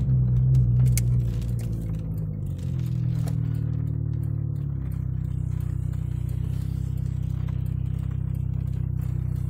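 Car engine heard from inside the cabin: a low hum whose pitch shifts over the first few seconds, then settles to a steady drone, with a few light clicks and rattles early on.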